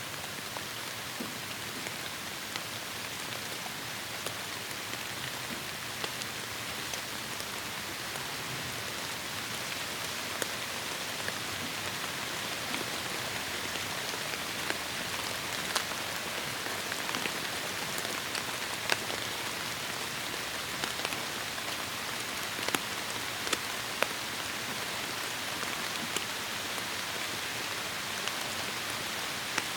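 Heavy rain falling in a tropical forest: a steady dense hiss with sharp individual drops striking close by now and then.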